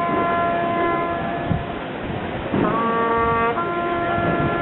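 Brass instruments blowing long held notes, each about a second long, shifting pitch a few times over a noisy background.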